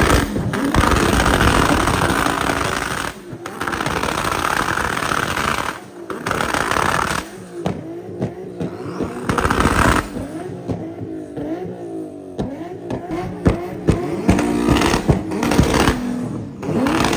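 Car engines revving hard through loud exhausts, in several short sections that start and stop abruptly, with crowd voices mixed in.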